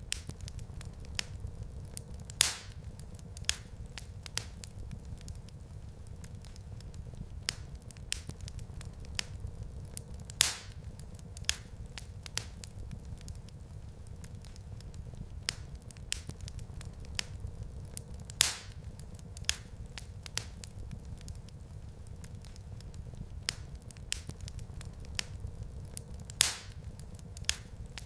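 Wood fire in a fireplace crackling: a steady low rumble of flames with frequent small snaps and four louder pops spread evenly through.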